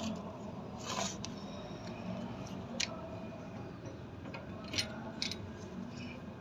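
Small tools and tank fittings being handled: a handful of separate light clicks and taps, the one about a second in a little longer, over a steady low hum.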